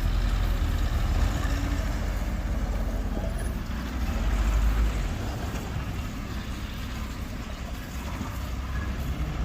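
Heavy diesel machinery engine running with a steady low rumble, swelling louder about four seconds in and then easing back.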